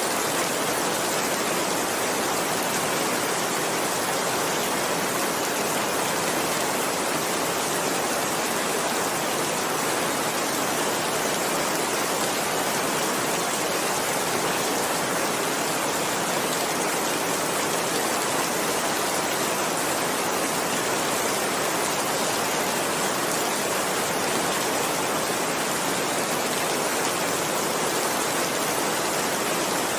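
Heavy rain falling steadily, an even hiss of downpour with no separate drops or thunder standing out.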